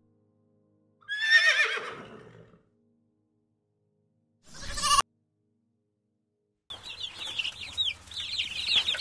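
A string of edited farm-animal calls with silent gaps between them: a wavering call that falls in pitch, a short call that cuts off abruptly, then many high, quick peeps typical of chicks or chickens.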